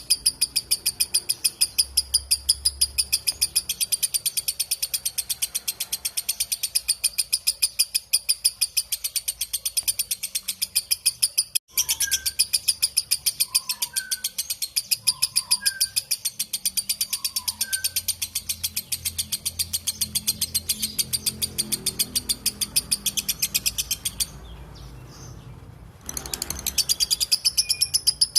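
Lovebird's long 'ngekek' chatter: a fast, unbroken run of high-pitched chattering notes repeated many times a second, cut off for an instant near the middle and paused for about two seconds near the end before starting again.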